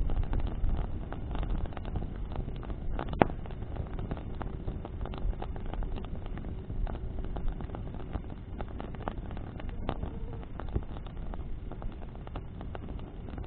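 Bonfire burning in the wind: wood crackling with many scattered small pops and one sharp, louder pop about three seconds in, over a low rumble of wind on the microphone.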